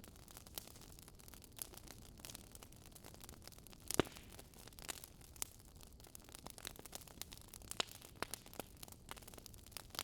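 Wood fire crackling with irregular sharp pops over a faint low hiss, one pop louder than the rest about four seconds in.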